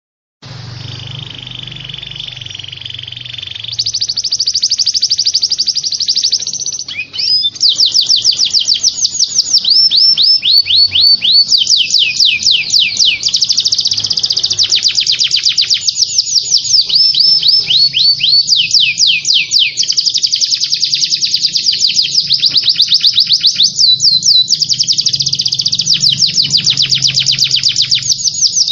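Songbird masteran recording of canary, cililin and kapas tembak song: continuous fast trills made of rapidly repeated falling notes. A softer, buzzy chatter opens it, and it turns louder and fuller about four seconds in.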